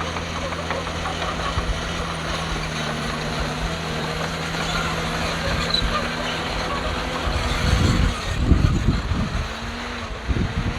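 Heavy earthmoving machine's diesel engine running steadily. About seven seconds in its steady hum fades, and wind buffets the microphone in low, uneven gusts.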